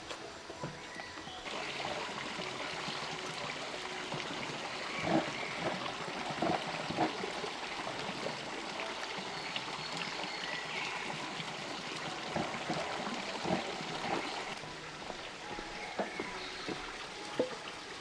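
Running water hissing steadily, with scattered light clicks and knocks. It starts abruptly about a second and a half in and drops away abruptly near the end.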